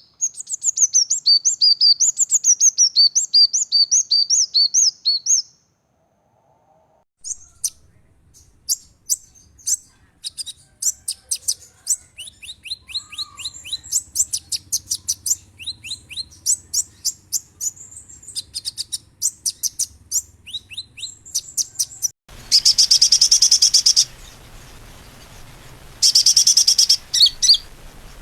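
Spliced recordings of small sunbird-type songbirds singing fast, high, sharp chirping phrases. One song stops about five seconds in, a second recording of rapid separate chirps follows after a short gap, and near the end a third, louder recording brings dense bursts of song over a hiss.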